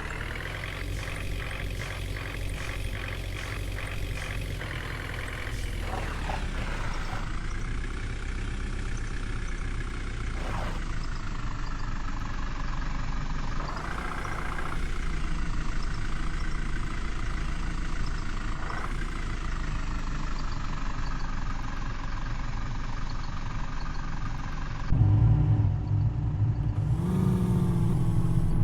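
Truck engine running, its pitch rising and falling several times, then louder and deeper from about 25 seconds in.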